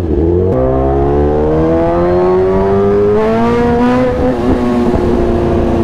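Sport motorcycle engine pulling hard under throttle. About half a second in the throttle opens and the pitch climbs steadily for roughly four seconds, then drops with an upshift and holds steady.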